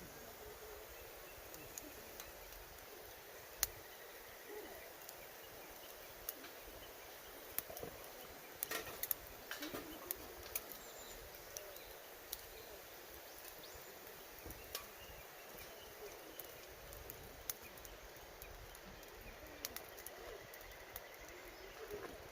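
Wood campfire crackling: scattered sharp pops and snaps of burning firewood, a quick cluster of them about nine seconds in, over a steady outdoor hiss. A faint bird call comes now and then.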